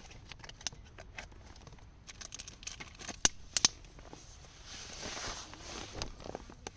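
Irregular sharp clicks and crackles, loudest between about three and four seconds in, with a swell of rustling about five seconds in.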